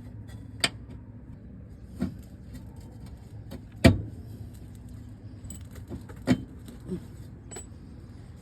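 Scattered metal clinks and knocks of tools and subframe parts being handled during hand work under a car, about six in all, the loudest about four seconds in, over a steady low hum.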